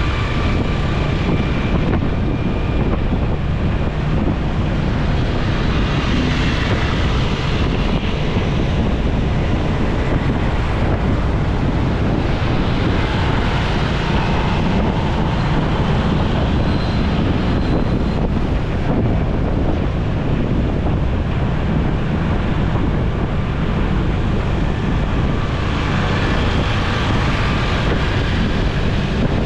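Wind rushing over the microphone of a moving motorcycle, over the motorcycle's engine and road noise: a steady, loud rush weighted toward the low end.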